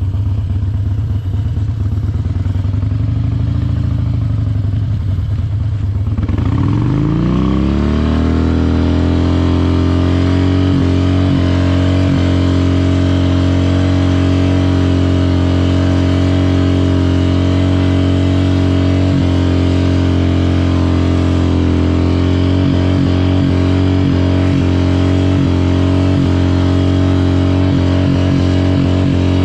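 Harley-Davidson Dyna Wide Glide's V-twin engine, unsteady at low revs, then revved up about six seconds in and held at a steady high rpm, with short stutters in the note here and there near the end.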